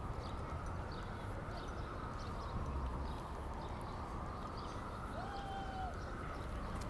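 Steady outdoor background noise with scattered light clicks and a brief whistle-like tone about five seconds in.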